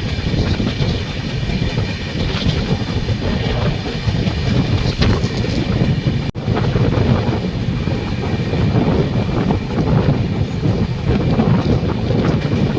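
Moving passenger train: a steady, loud rumble with clattering wheels on the rails and wind noise, briefly cut off about halfway through.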